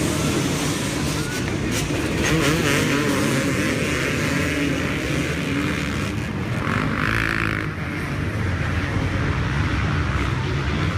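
A pack of dirt bikes racing off the start line, many engines revving at once in a dense, continuous drone whose pitches weave up and down over one another.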